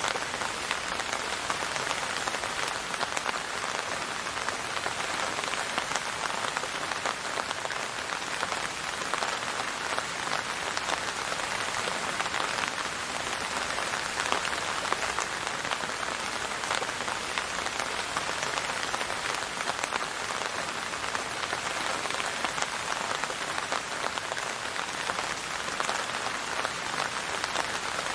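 Steady rain pattering on a hard surface, a dense even hiss of countless small drop impacts with no let-up.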